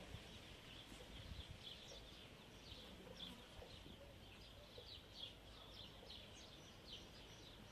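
Small birds chirping faintly: a steady scatter of short, high chirps over a low background rumble.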